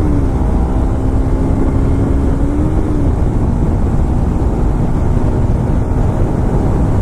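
Motorcycle riding at steady speed: the engine drones under a heavy low rumble of wind and road noise. A steady engine tone holds for about the first three seconds, then sinks under the rumble.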